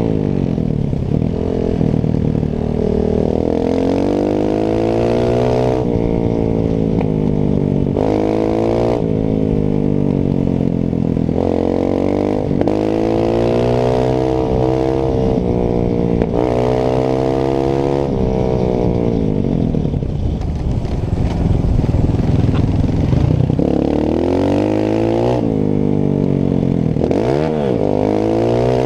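Single-cylinder four-stroke Honda CRF trail bike engine being ridden hard. It revs up and drops back again and again as the throttle opens and shuts through gear changes, with a quick dip and climb near the end.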